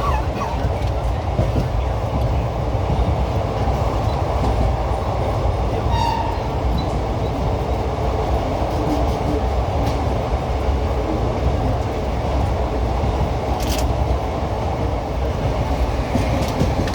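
Indian Railways ICF passenger coach running along the track: a steady, unbroken rumble of wheels on rail, strongest low down.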